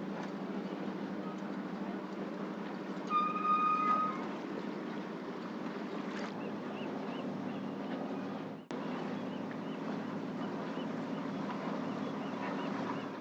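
A boat's engine running with a steady low drone, with a clear high-pitched beep lasting about a second roughly three seconds in.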